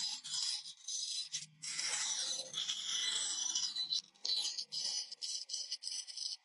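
A blade cutting and scraping across a wooden board in repeated rough strokes: longer strokes at first, then quicker short ones over the last two seconds.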